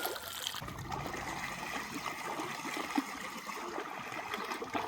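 Water trickling and running steadily, like a small stream, cutting off suddenly at the end.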